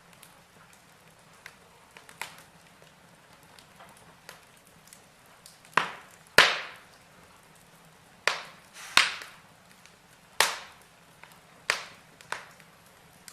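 Burning logs crackling in a fireplace: irregular sharp pops and snaps, scattered at first, then a run of about eight louder cracks through the second half.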